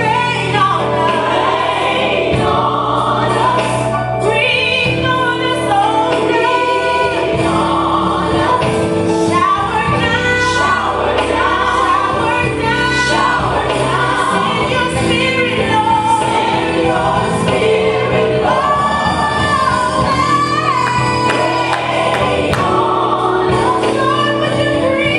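Gospel song with a choir and lead singers over a steady instrumental backing.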